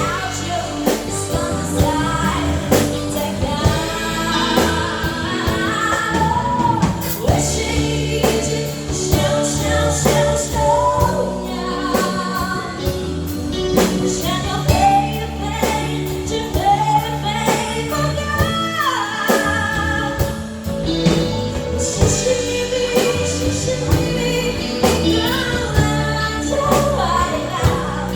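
Live band playing a Mandarin pop-rock song: singing over guitars, bass and drums, with a steady beat.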